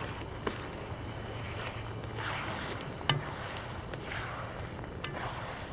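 Chicken and teriyaki sauce sizzling in a wok while a spatula stirs and scrapes through it. Sharp utensil clicks come about half a second in and, loudest, about three seconds in.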